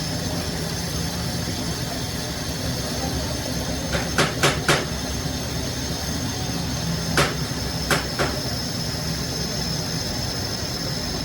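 Steady machine noise with a low hum and a high whine, broken by sharp knocks: three in quick succession about four seconds in, then three more spread over the next few seconds.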